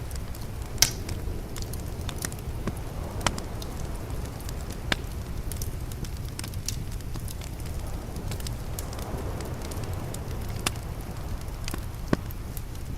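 Wood fire crackling, with sharp pops at irregular moments, the loudest about a second in, over a steady low rumble.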